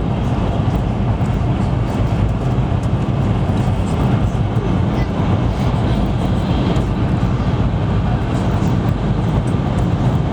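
Steady, loud running noise heard inside the passenger car of a Taiwan High Speed Rail 700T train travelling at high speed, a deep, even rumble with no breaks.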